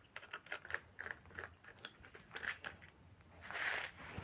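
Faint, irregular small clicks and scrapes of a screwdriver backing out the screws of a contactor's plastic housing, with a short louder scrape about three and a half seconds in.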